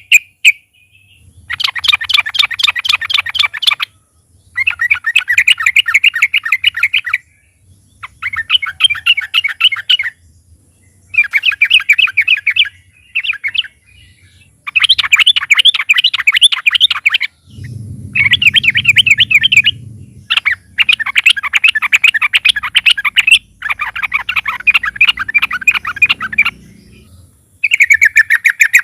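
Yellow-vented bulbul (trucukan) singing in repeated loud bursts of fast chattering trills, each two to three seconds long with short pauses between.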